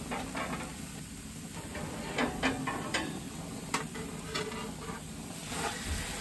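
Diced onions sizzling on a hot cast-iron griddle plate, with sharp clinks and scrapes of a metal scraper against a wrought-iron pan in the middle. Near the end the raw diced steak is pushed out of the pan onto the hot plate.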